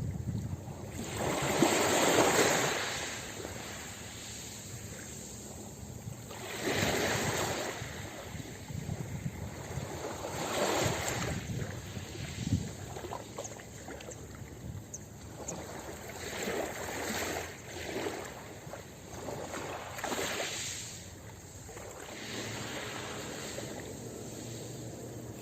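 Ocean waves breaking and washing up on a beach, one surge every few seconds, the loudest about two seconds in.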